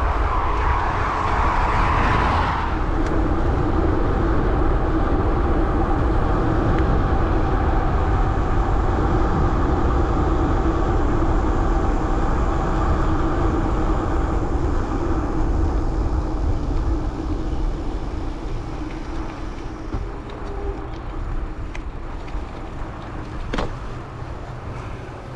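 Wind rushing over a chest-mounted action camera's microphone, with the steady hum of gravel bike tyres rolling on pavement. A brighter rush in the first couple of seconds drops away, and the whole sound eases off over the last several seconds as the bike slows.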